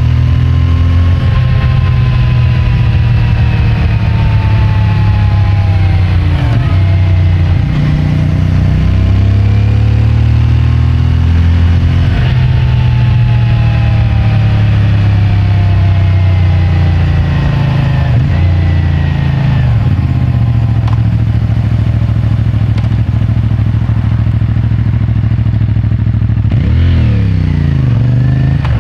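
CFMOTO 450MT's parallel-twin engine on its stock exhaust while riding, its pitch rising and falling for several seconds at a time with the throttle. A few quick breaks in the pitch come from gear changes, including a fast dip and recovery near the end.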